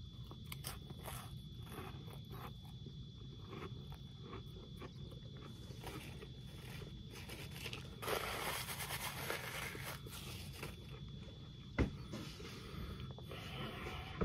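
Faint crunching and small clicks of someone chewing a crunchy chip topped with tuna. About eight seconds in, a paper napkin rustles for a couple of seconds, and a short sharp sound follows near the end.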